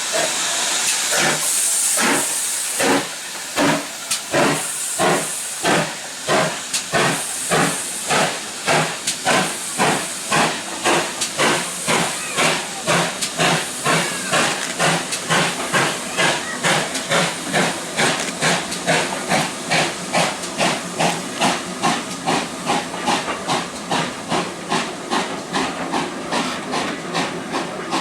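Steam locomotive pulling away: a hiss of steam at first, then exhaust chuffs that start slow and steadily quicken to nearly three a second as the train gathers speed.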